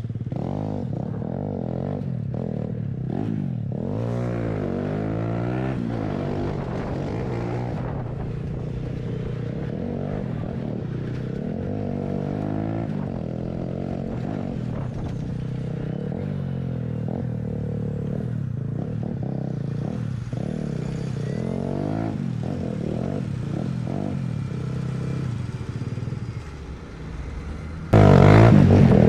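Motorcycle engine running while being ridden, its pitch rising and falling again and again as the throttle opens and closes through the gears. Near the end a sudden, much louder rush of noise covers it.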